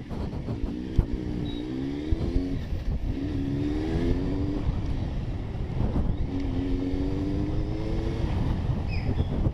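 Superbike engine accelerating, its pitch climbing three times with a break between each, as it pulls up through the gears, with wind rushing on the microphone.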